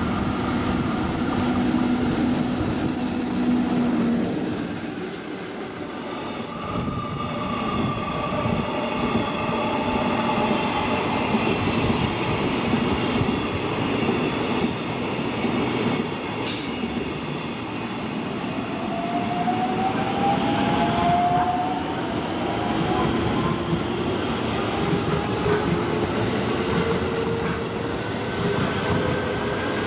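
EF64 electric locomotive running past on a delivery train, with a steady rumble and a strong high hiss over the first several seconds. Then a JR West 223 series 2000 electric train runs along the platform, its motor whine gliding upward in pitch over the wheel and rail noise.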